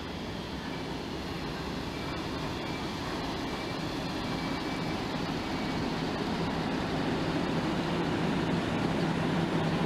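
ÖBB class 1142 electric locomotive and its double-deck coaches rolling slowly into the station, the rumble growing steadily louder as the locomotive draws level. A low steady hum from the locomotive comes up in the last few seconds.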